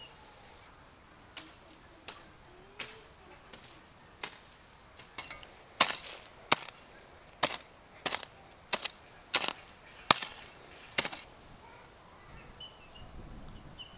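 A series of sharp chopping knocks, about fifteen in all, at an uneven pace of roughly one or two a second. They stop about eleven seconds in.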